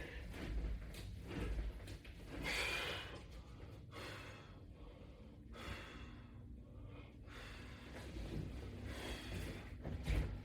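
A person breathing hard, with forceful gasping breaths every second or two, while doing crunches.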